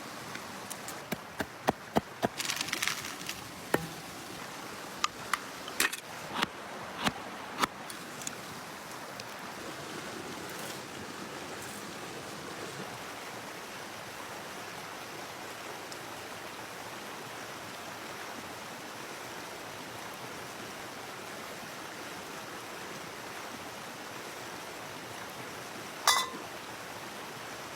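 Steady rushing noise of running water, with a string of sharp clicks and snaps in the first eight seconds and one more just before the end.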